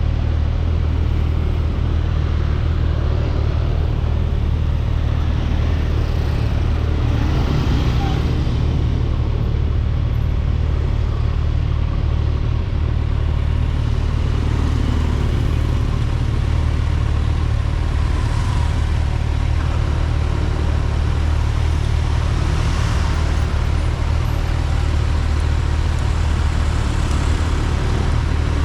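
Kawasaki Ninja 1000SX's inline-four engine running steadily at a constant speed while the bike is ridden, with road and wind noise.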